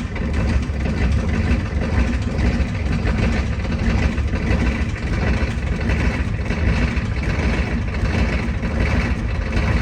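Ford 6.9L IDI V8 diesel running steadily just after a cold start in freezing temperatures, with no block heater, firing on freshly replaced glow plugs.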